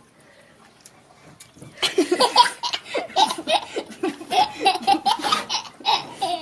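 A person laughing hard in quick repeated bursts, starting about two seconds in after a quiet moment.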